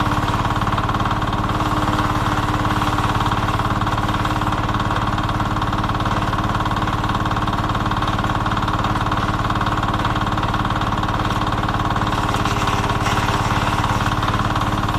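An engine running steadily with an even, rapid pulse.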